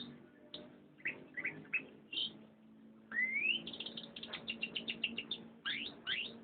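Domestic canary singing: scattered short chirps, then a rising whistle about three seconds in that runs into a fast trill of quickly repeated notes, with a few more quick rising calls near the end.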